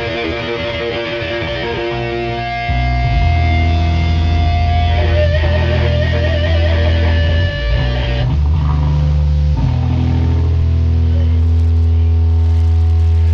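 Guitar music with held, sustained notes; a loud, deep bass comes in about three seconds in and carries on under the guitar.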